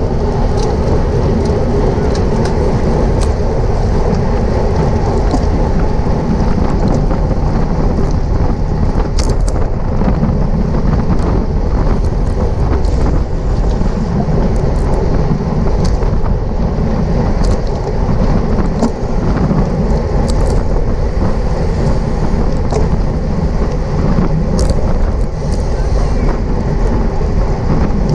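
Wind rushing over a bike-mounted camera's microphone during a bicycle race at speed: a loud, steady roar that never lets up.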